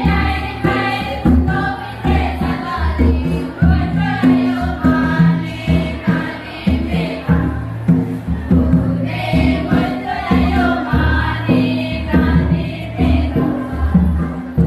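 Group singing of a Karam festival song, with a steady low drum beat under the voices.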